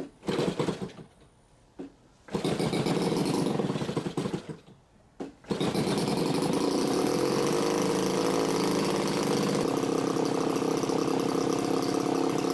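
33cc two-stroke gas model-airplane engine being started: a brief burst of firing that dies, a couple of seconds of running that cuts out, then about five and a half seconds in it catches and runs steadily.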